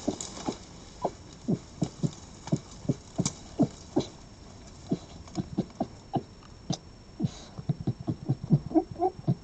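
An animal close to the microphone making a series of short, sharp sounds, about two a second, some with a quick falling pitch, coming faster near the end.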